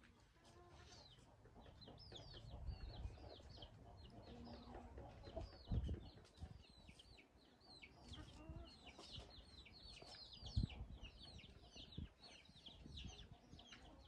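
Birds chirping: many short, high chirps that each fall in pitch, several a second, with a few soft low knocks.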